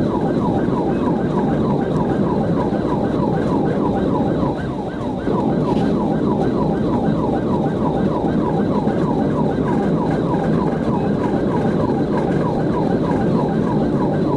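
Police car siren in rapid yelp mode, sweeping about three to four times a second, over steady road and engine noise from the cruiser during a high-speed pursuit.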